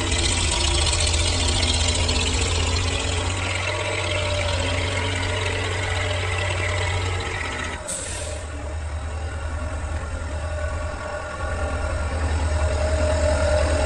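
Tractor engine running steadily, with a sudden brief dip about eight seconds in; after it the engine runs a little quieter, then builds up again near the end.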